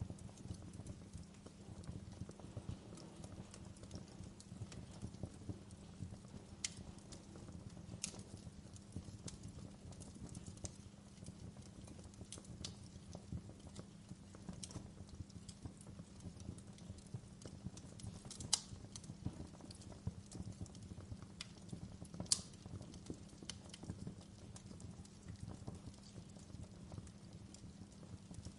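Log fire in a fireplace crackling: a steady low rumble of burning with a dense run of small snaps and a few sharper pops, two of them standing out in the second half.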